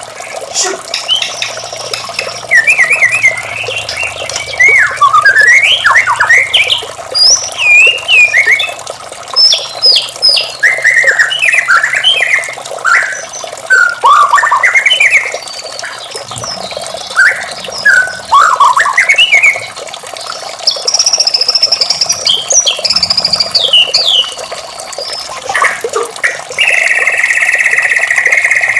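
White-rumped shama singing: a quick, varied run of clear whistles, rising and falling slurs and squawky notes. Near the end a single buzzy note is held steady for about two seconds.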